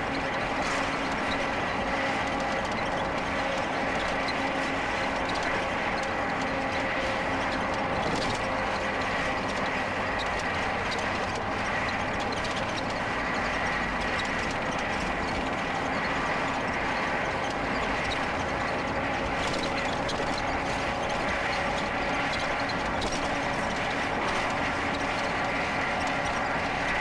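Continuous rattling and road noise of a riding lawn mower being towed along the road, with a faint steady whine.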